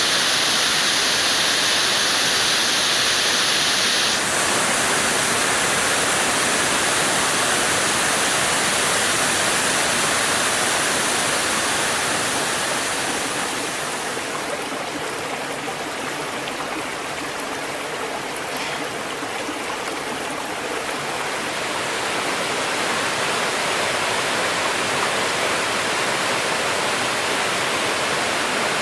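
Rushing water running steadily, an even hiss with no distinct splashes. Its tone shifts abruptly about four seconds in, and it grows quieter for several seconds around the middle before rising again.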